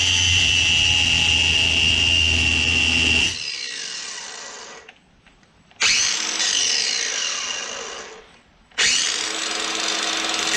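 Handheld electric power tool running at steady high speed, switched off about three seconds in and winding down with a falling whine, then restarted twice with a second spin-down between. It is used to remove a piece welded all around the scooter's muffler mount.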